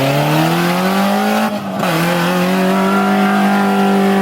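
Off-road 4x4's engine revving hard, rising steadily in pitch, with a short dip about one and a half seconds in, then holding at steady high revs.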